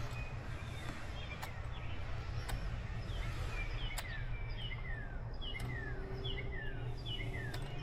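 A bird singing a run of short, repeated chirps that each slide downward in pitch, about two a second, starting a few seconds in. Under it run a steady low background rumble and a few faint sharp clicks.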